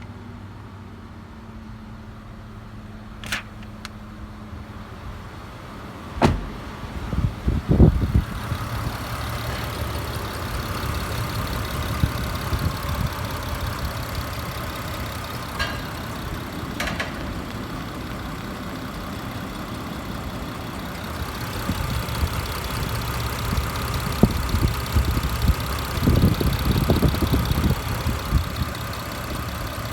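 2021 Mitsubishi Montero Sport engine running steadily, quieter at first and louder from about eight seconds in. A sharp click comes about three seconds in and another about six seconds in, and bursts of low thumps come around seven seconds and again near the end.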